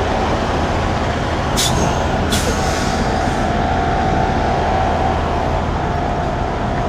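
Semi truck's diesel engine running steadily as the truck begins to back up. Two brief hisses come about one and a half and two and a half seconds in, and a steady whine rises out of the engine noise from about two and a half seconds on.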